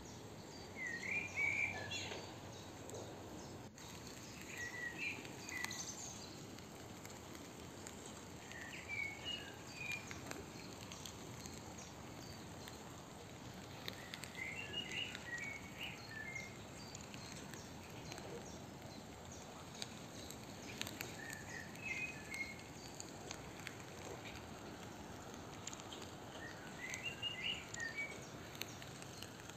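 A songbird singing short phrases of a few quick high notes, six times a few seconds apart, over a steady outdoor background hiss.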